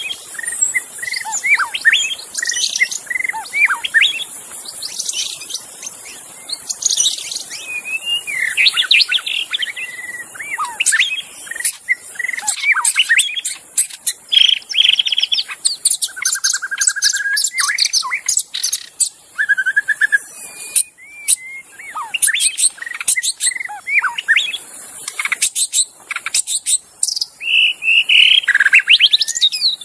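White-rumped shama (murai batu) singing a varied, fast run of whistled phrases, slurred glides, trills and sharp clicks, phrase after phrase without a break. A steady high hiss runs underneath.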